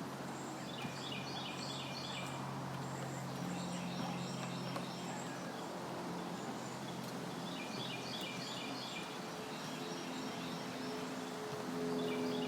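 A songbird singing a short phrase of quick, repeated high notes, about three times, over a steady low background hum.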